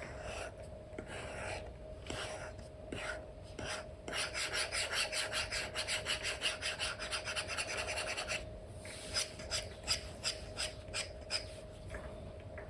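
Apple Pencil 2 with an Elecom nib scratching across a paper-like screen film on an iPad: a run of quick back-and-forth strokes from about four seconds in, then a handful of separate strokes.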